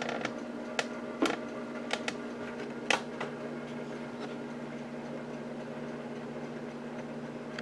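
Handling noise from a hand-held camera being picked up and moved: a few sharp clicks and knocks in the first three seconds, the loudest about three seconds in. Under them runs a steady electrical hum.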